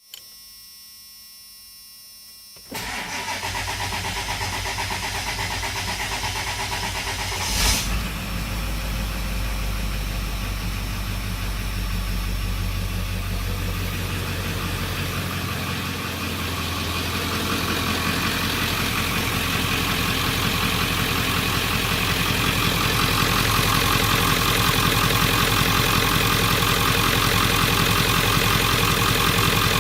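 1997 Ford 7.3-litre Power Stroke V8 turbo diesel starting from cold. After a few seconds of low steady sound the engine catches, about three seconds in, and settles into a steady idle. There is a brief loud sound near eight seconds, and the engine grows gradually louder over the last half.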